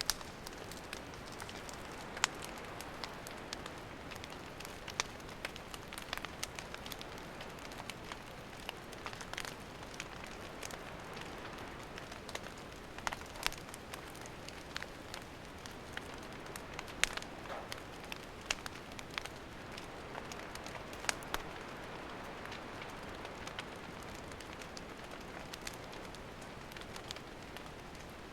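Wood campfire burning: a steady hiss with frequent irregular sharp crackles and pops, a few of them louder.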